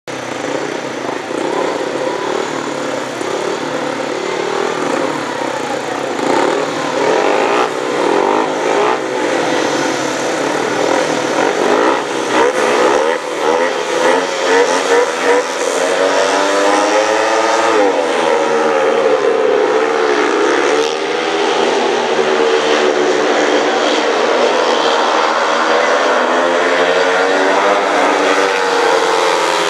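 Four speedway bikes' single-cylinder methanol engines revving and blipping together at the start line. About halfway through they rise sharply as the bikes launch from the start. They then run hard together, rising and falling in pitch as the riders race into the first bend.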